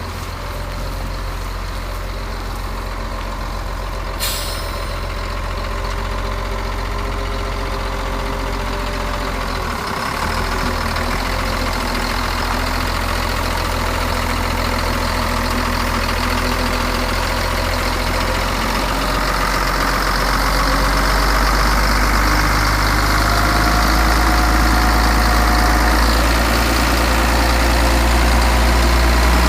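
Caterpillar 140G motor grader's diesel engine running steadily, with a sudden hiss of released air about four seconds in. The engine grows gradually louder through the second half.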